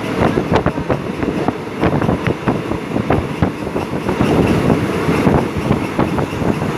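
Ride noise of a moving passenger train heard from inside a carriage: wheels running on the rails with a steady rumble and frequent irregular clicks and rattles.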